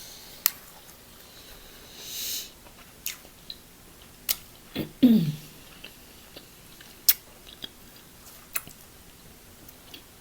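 Close-miked eating sounds: scattered sharp, wet mouth clicks and smacks of chewing. There is a brief hiss about two seconds in and a short falling hum about five seconds in.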